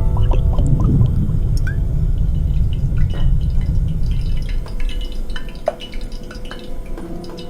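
Water drops dripping and plinking irregularly, the makings of a rain sound effect, over a low rumble that fades out about two-thirds of the way through.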